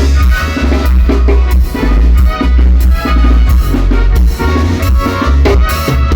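A band playing Latin dance music, driven by a drum kit with a steady beat of bass drum and snare over heavy bass.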